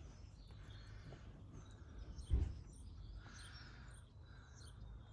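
Faint birds chirping over a low background rumble, with a single thump about two and a half seconds in.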